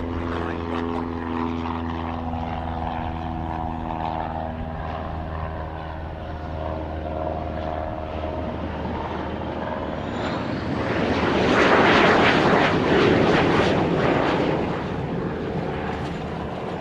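Airplane engine noise: a steady drone with even propeller-like tones. About ten seconds in, a loud rushing sound swells up as an aircraft passes close, peaks a few seconds later, then fades.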